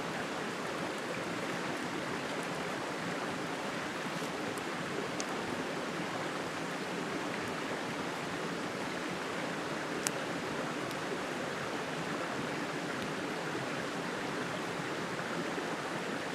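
Steady, even rushing of flowing water, like a stream, with a few faint light ticks, one clearest about ten seconds in.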